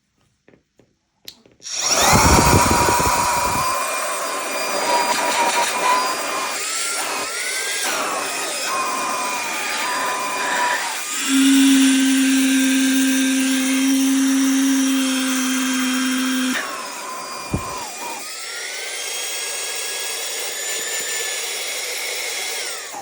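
Homemade boat pump built on a 44.7 mm three-phase brushless turbofan (a vacuum-cleaner blower motor rated 100,000 rpm), starting about two seconds in and running with a high whine and rush of air. Its pitch shifts several times, a steady low hum joins for about five seconds in the middle, it dips briefly and spins up again, then winds down at the end.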